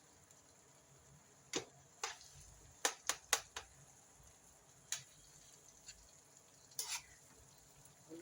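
A cooking utensil clinking against a pot several times while the food is stirred. Most of the knocks come in a quick cluster a couple of seconds in, with two more later on.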